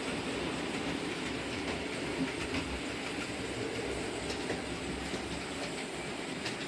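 Model trains running on the layout's track: a steady rumble of motors and wheels, with a few light clicks as they run over the rail joints.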